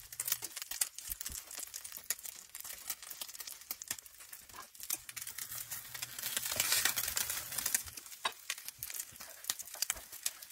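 Egg omelette with onion and cauliflower sizzling and crackling in oil in a stainless steel skillet, a dense run of small pops and crackles. The sizzle swells louder about six to seven and a half seconds in as a spatula works under the edge.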